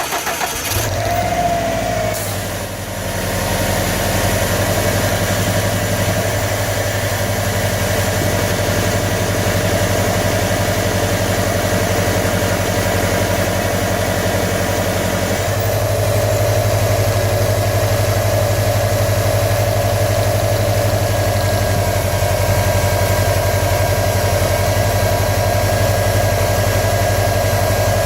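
2015 Subaru WRX STI's turbocharged flat-four engine cranking, catching about a second in with a brief rev flare, then idling steadily; the idle note changes about halfway through. The engine is being checked for a knock.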